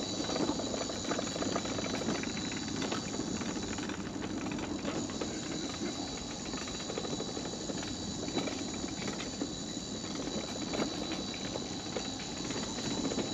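Mobility scooter wheels rolling over a wooden boardwalk, a steady low rumble with many small clicks from the plank joints, under a steady high-pitched buzz of insects.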